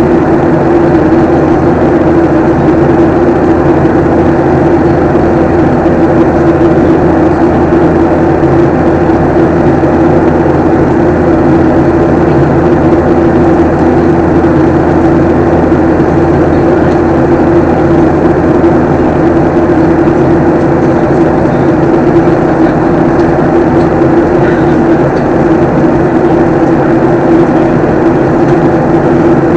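Steady drone of a jet airliner's engines and airflow heard from inside the cabin in flight, loud and unchanging, with a strong low hum.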